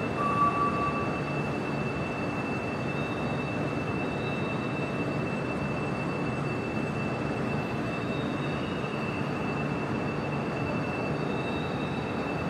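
Steady running noise of a Fuxing CR400AF-A high-speed train, with a thin, steady high whine over it.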